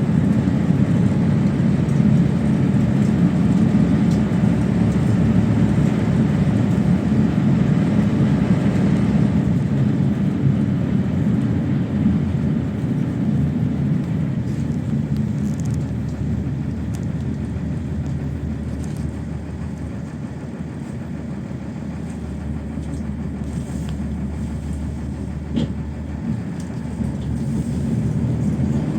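PAZ-32054 bus driving, heard from inside the cabin: a steady low engine and road rumble. It grows quieter through the middle and louder again near the end, with a few light rattles.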